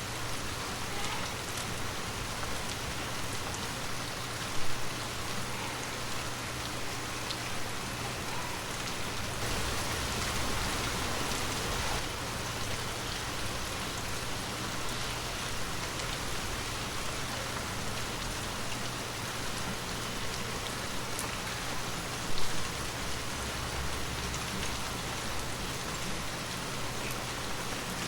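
Heavy rain falling steadily on hard surfaces, an even hiss of drops, with two brief louder thumps, about five seconds in and again a little past twenty seconds.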